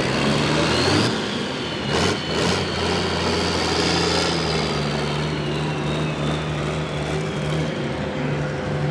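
Diesel engine of a pulling tractor running at steady speed, with a high whine that slowly falls in pitch. Two sharp knocks come about two seconds in.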